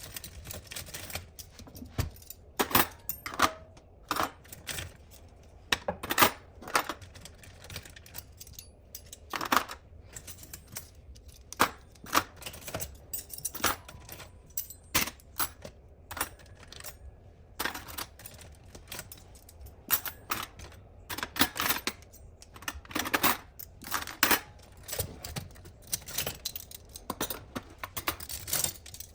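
Dishes and cutlery clinking and clattering as a dishwasher is unloaded: many sharp, irregular clinks throughout.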